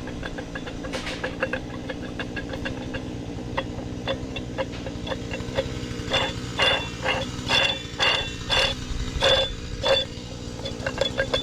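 A steady low engine hum runs throughout. From about six seconds in comes a quick series of sharp metallic clicks and clanks with a ringing edge, as the worn old tractor water pump is handled and turned.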